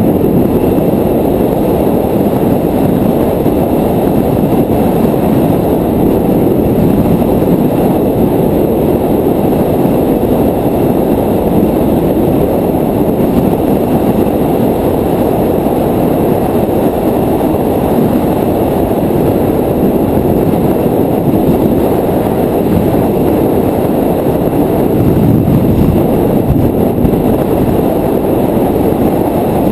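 Wind buffeting the microphone of a moving bicycle rider: a loud, steady, low rumble that does not let up.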